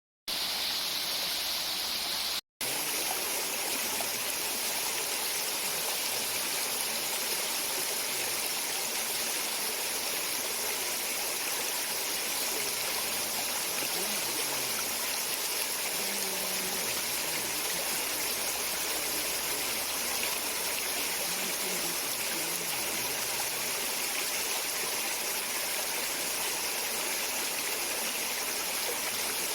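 Stream water running steadily over rocks with a continuous rushing sound, broken by a brief silent gap about two and a half seconds in.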